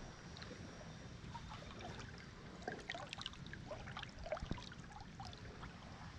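Faint river water trickling and lapping, with scattered small splashes and clicks in the middle few seconds.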